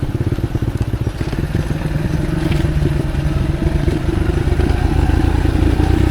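Motorcycle engine running at low speed as the bike creeps slowly down a slippery trail, getting louder with the revs rising slightly over the last couple of seconds.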